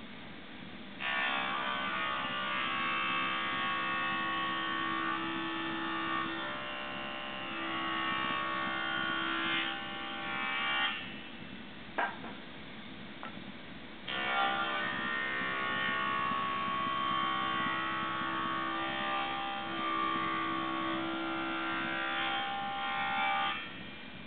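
Power saw cutting wood in two long passes of about ten seconds each, each with a steady high-pitched tone while the blade is in the wood. A sharp knock falls between the cuts.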